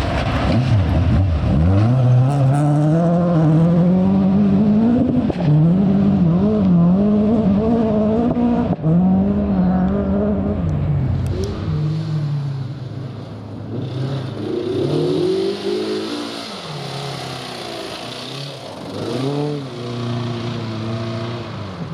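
Rally car engine revving hard on a stage, its pitch climbing and dropping again and again through gear changes and throttle lifts. It grows quieter over the second half as the car moves away.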